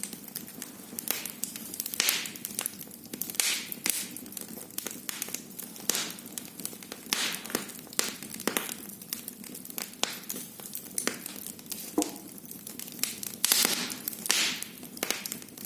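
Wood fire crackling in a fireplace: irregular pops and snaps over a soft steady hiss, with brief louder hissing flares every second or two.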